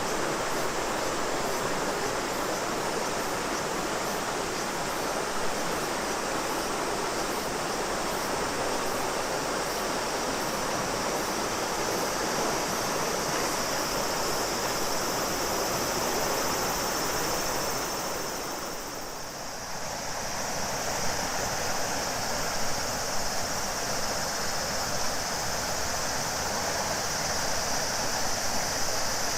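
River water rushing steadily, with cicadas droning in a continuous high buzz over it. Partway through, the sound dips briefly and then returns, with the cicada buzz stronger than before.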